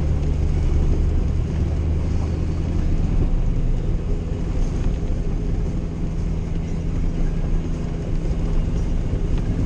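An old Jeep's engine running at a steady cruise with a low drone and tyre and road noise, heard from inside the cabin.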